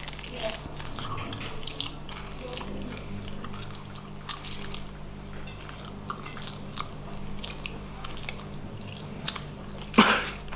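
Chewing and biting of crispy fried chicken: scattered faint crunches and wet mouth sounds over a steady low hum. One loud, sharp burst comes near the end.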